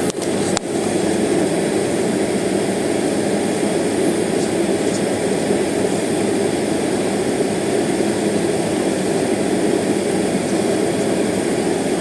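Steady cabin noise inside a jet airliner held stationary near the runway with its engines idling, a constant low rush with a thin high whine above it. Two brief dropouts come just after the start.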